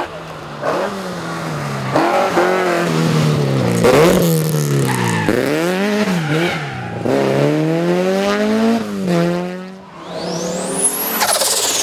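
Historic rally car engine revving hard, climbing and dropping in pitch through several quick gear changes as the car accelerates past, then fading. Near the end another car comes in with a high whine that rises and then falls.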